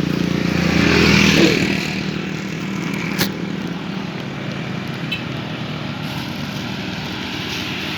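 Road traffic noise: a vehicle passes, loudest about a second in, then a steady hum of traffic follows, with one sharp click near the middle.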